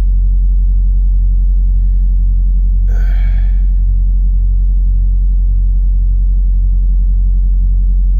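Steady, loud low hum with a faint regular throb, and a short breath-like sound about three seconds in.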